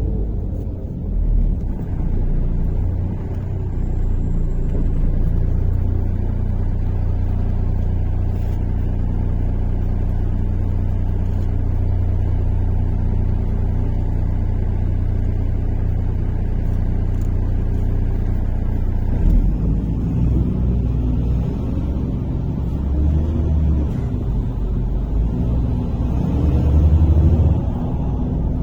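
MAZ-103 city bus underway, its engine and drivetrain rumbling steadily as heard from inside the passenger cabin. About two-thirds of the way through the low hum changes and the engine note shifts in pitch, the bus pulling away or changing speed.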